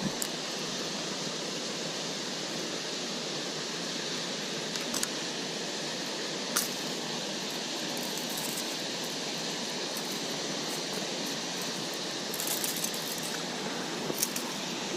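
Steady rush of water pouring over a small spillway, with a few short clicks and ticks over it.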